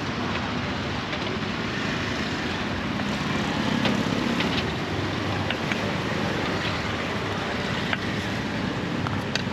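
Busy street-market background noise: a steady din of motor traffic, with a few faint, sharp clicks and clinks scattered through it.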